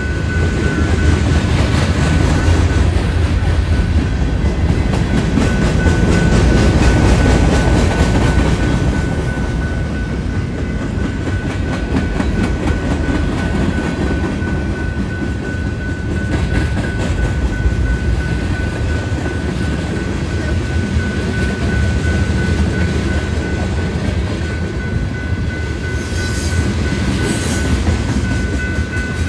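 Freight train rolling past, its wheels rumbling and clacking over the rails, with a thin steady high tone throughout and a couple of brief high squeals near the end.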